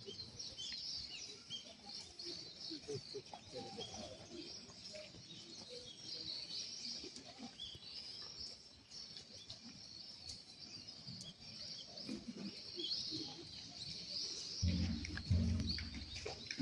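Small birds chirping and calling in the trees, many short high chirps over a faint background hum. Music comes in near the end.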